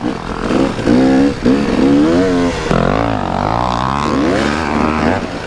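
250cc two-stroke dirt bike engine revving on and off the throttle while riding, its pitch rising and falling repeatedly.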